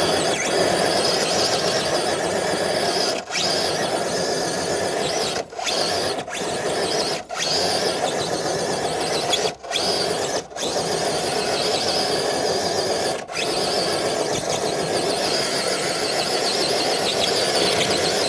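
Traxxas TRX4 RC truck's electric motor and geared drivetrain whining under load as it pulls a weighted dead sled. The whine cuts out briefly about seven times as the throttle is let off and reapplied.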